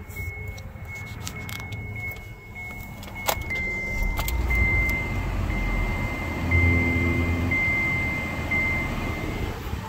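A car's engine starting with a click about three seconds in, then idling with a low rumble, while the dashboard's door-open warning chime beeps on and off at a high pitch. Keys jangle and small handling clicks come before the start.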